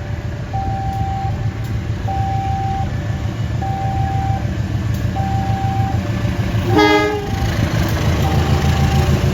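Railway level-crossing warning alarm sounding a repeating two-tone signal over the low rumble of a train. About seven seconds in, a train horn gives one short blast.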